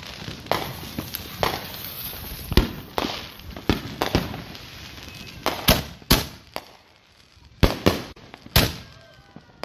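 Many fireworks and firecrackers going off: about a dozen sharp bangs at irregular intervals over a steady crackle, the crackle thinning out after about six seconds.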